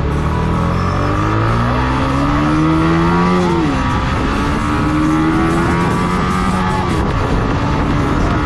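Yamaha MT-15's 155 cc single-cylinder engine pulling hard through the gears. Its revs rise steadily, then drop sharply at an upshift about three and a half seconds in, and again about seven seconds in.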